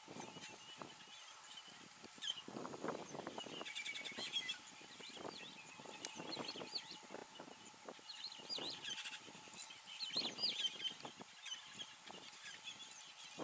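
Small birds chirping and twittering in scattered bursts, over a few soft rustles and a faint steady high-pitched tone.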